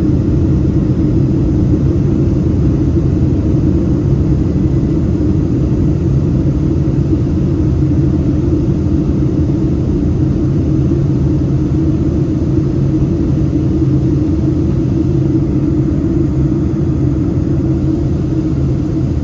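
Steady low rumble of a Boeing 767-300ER's jet engines, even and unchanging in pitch and level.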